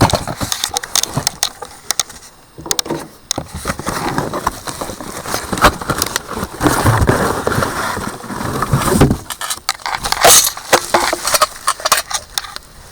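Cardboard and plastic packaging being handled and pulled apart: irregular rustling and crinkling with many small knocks and clicks.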